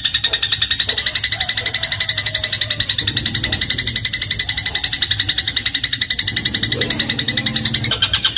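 Eurasian tree sparrow giving a long, very fast chattering trill of identical high notes, more than a dozen a second, rising slightly in pitch near the end.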